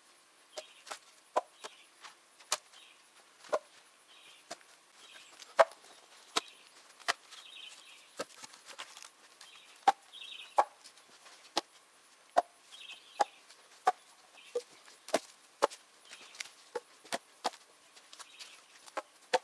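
Split birch logs clacking against one another as they are laid and knocked into place on a firewood stack: a long, irregular run of sharp wooden knocks, about one or two a second.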